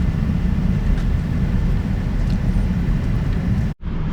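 Truck driving: a steady low rumble of engine and road noise, broken by a brief cut near the end.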